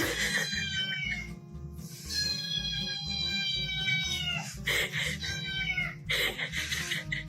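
A cat meowing several times in long, drawn-out calls that fall in pitch, over background music with a steady beat.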